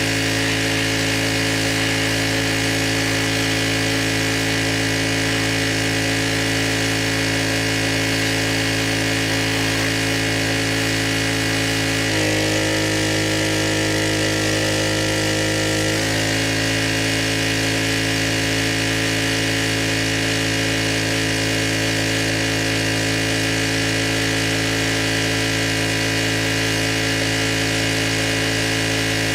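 Gas pressure washer engine running steadily. From about twelve seconds in, its note changes for roughly four seconds, then settles back to the same steady pitch.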